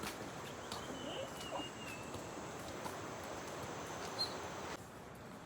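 Outdoor ambience: a steady hiss of background noise with a faint bird whistle early on and a short high chirp later, the background dropping abruptly near the end.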